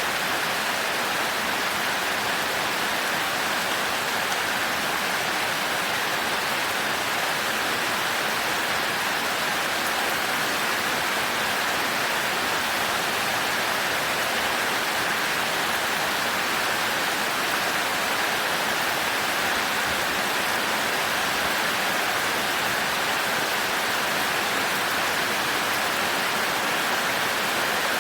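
Heavy rain falling steadily on a thatched roof: an even, unbroken hiss.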